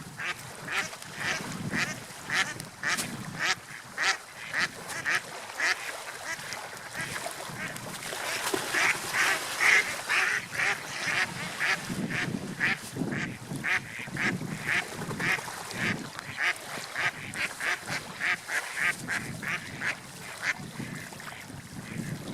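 Seagulls calling over and over in short, rapid calls, about two a second, loudest around the middle, over a low rushing of wind or surf.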